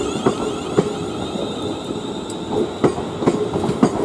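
Greater Anglia Class 360 electric multiple unit pulling out, its wheels clicking over rail joints at an uneven pace, under a steady high whine from its traction equipment.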